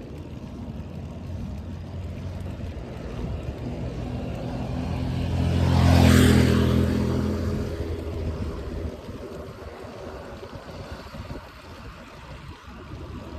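A motor vehicle passes close by. Its engine grows louder, peaks about six seconds in, then fades away, over steady wind and road noise.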